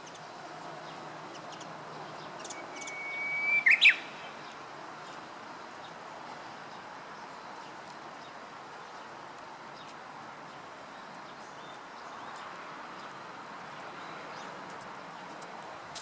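Japanese bush warbler singing its hō-hokekyo song once: a long steady whistle that swells louder, then a quick run of sharp notes ending about four seconds in. A steady background hiss fills the rest.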